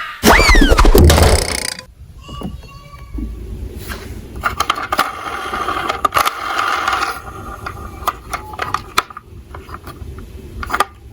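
A loud sound effect with a falling pitch, then small toy cars rolling and clattering down a slope, with many light clicks and knocks.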